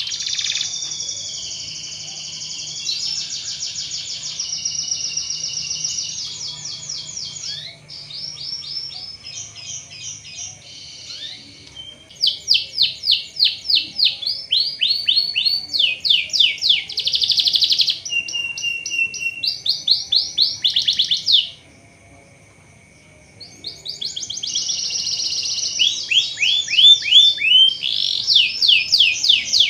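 Domestic canary singing: long, fast trills of repeated high sweeping notes, changing from one trilled phrase to the next. The song breaks off for about two seconds after some twenty seconds, then starts again.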